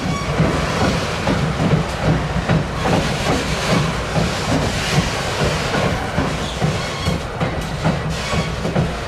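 Slow freight train of loaded flatcars rolling by, steel wheels clacking over rail joints in an uneven rhythm, with a steady low rumble underneath.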